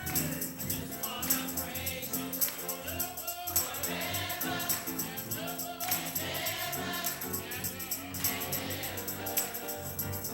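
Gospel choir singing a slow worship song over instrumental accompaniment, with a steady percussion beat.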